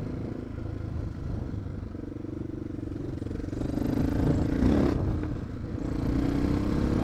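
Suzuki dual-sport motorcycle's single-cylinder engine running under way, over a low wind rumble. The engine note climbs about four seconds in, drops briefly around five seconds, then holds steady.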